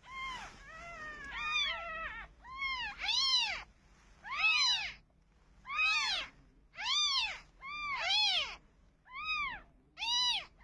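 Domestic cat meowing over and over, about ten calls roughly a second apart, each rising and then falling in pitch.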